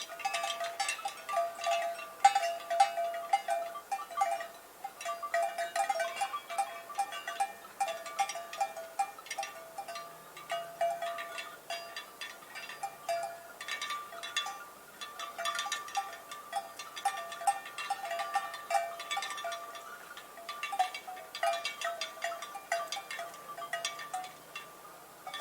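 Several cowbells on grazing cows ringing irregularly, a continuous jangle of overlapping strikes at a few different pitches.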